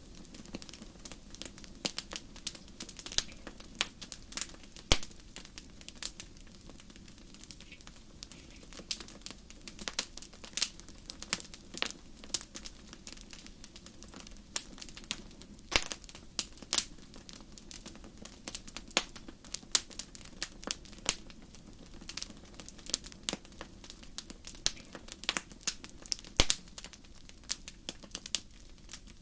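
Burning wood in a fireplace crackling and popping, with sharp, irregular snaps several times a second over a steady low rumble of the fire.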